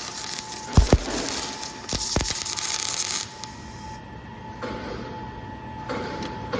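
Electric arc welding: a steady crackling hiss with a few sharp pops, easing off about three seconds in.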